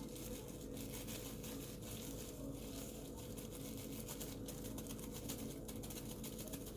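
Faint, irregular tapping and rustling as a seasoning container is shaken and tapped to get jerk seasoning out that is slow to come out, over a steady low hum.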